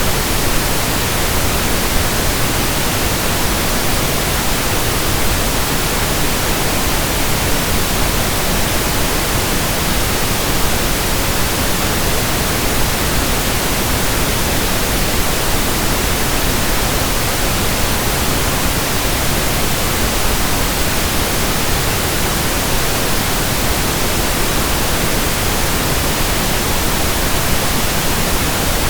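Steady pink noise: an even, unchanging hiss spread across all pitches, without breaks or changes.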